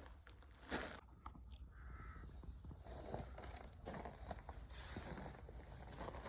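Faint rustling, scraping and small knocks, with one short call about two seconds in.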